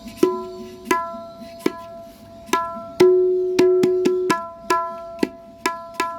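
A tabla tuned to D# being played with single strokes at an uneven pace, each note ringing with a clear pitch. About three seconds in, a lower ringing note sustains for over a second while quick strokes sound over it.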